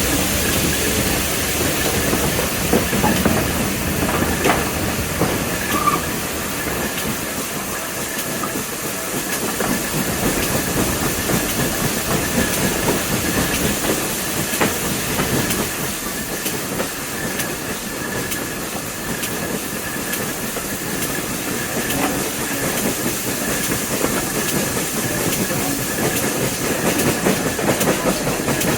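Train running along the track: a steady rolling noise with the wheels clicking over rail joints and a thin, steady high tone above it.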